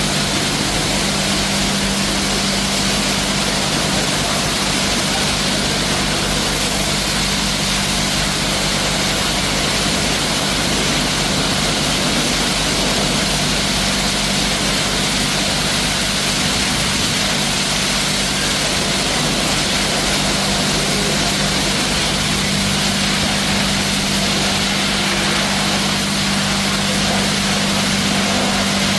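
Shinewash K9 touchless car wash machine running: a steady motor and pump hum under a constant hiss of high-pressure water spray.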